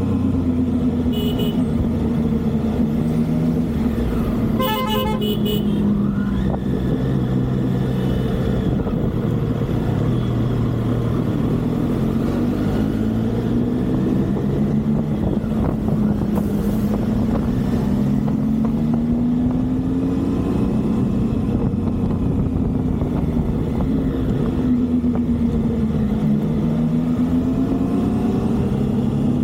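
Triumph motorcycle engine revving up and falling back as it accelerates, shifts and slows in traffic, over steady road and wind noise. A vehicle horn beeps briefly about a second in, then sounds again for about a second around five seconds in.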